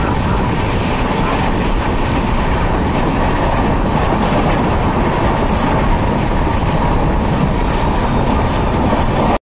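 Samatha Express passenger train running through a station at speed without stopping, heard from an open door of one of its coaches: steady wheel-and-rail running noise. The sound cuts off suddenly near the end.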